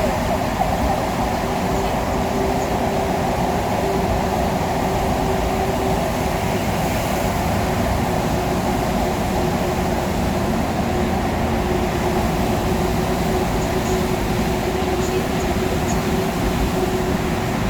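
Steady road and engine noise heard from inside the cabin of a vehicle driving at speed, with a constant low hum running through it.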